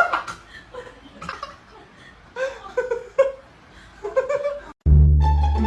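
Laughter and giggling in short bursts. Near the end it cuts off suddenly and music with plucked strings and a deep bass line begins.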